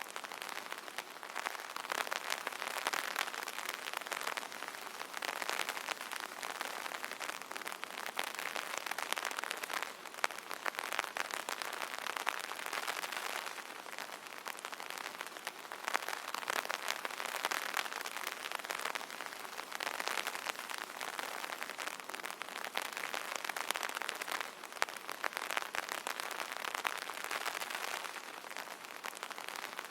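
Steady rain pattering on an umbrella canopy: a dense hiss of countless drop ticks that swells and eases every few seconds.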